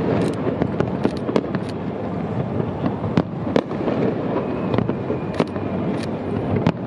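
Fireworks display: aerial shells bursting in sharp bangs at irregular intervals, over a continuous rumble of overlapping explosions.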